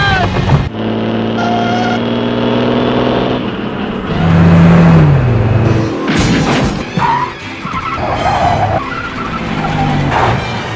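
Edited sound-effect track of car and truck engines and tyres skidding, cut together in short segments over music. An engine hum drops in pitch about halfway through.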